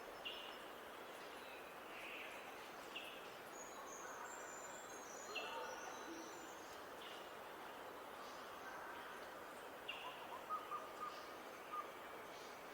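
Wild birds calling outdoors: a short call repeated every second or two, high thin twittering a few seconds in, and a brief low hoot, over a steady background hiss.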